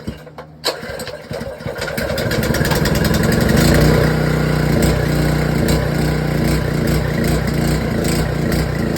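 Ironton 208cc single-cylinder four-stroke engine pull-started with the choke on. It catches about a second in, picks up, and runs steadily, a little choppy, which the owner takes for a fuel delivery issue at the carburettor.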